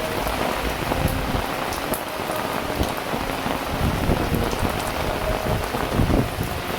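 Heavy rain falling steadily, with an uneven low rumble of wind gusting against the microphone.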